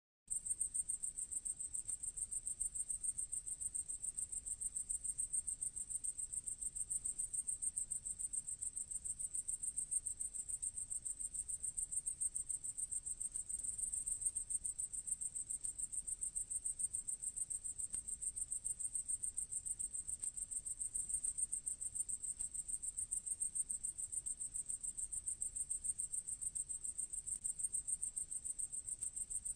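Grasshopper stridulating: a continuous, high-pitched trill made of rapid pulses, running on without a break.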